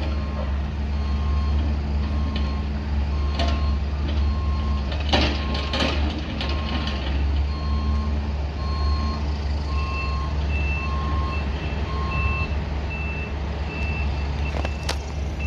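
Heavy construction machine running with its reversing alarm beeping at a steady rate. Near the end a second, higher-pitched backup alarm takes over, and a few short knocks sound in the first half.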